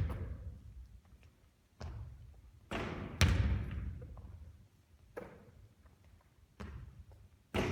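Basketball bouncing on a court, about seven separate thuds at uneven intervals, each trailing off in a short echo, the loudest about three seconds in.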